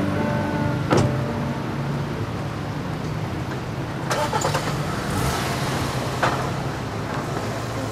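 Car engine running steadily, with a sharp click about a second in and a few lighter clicks later.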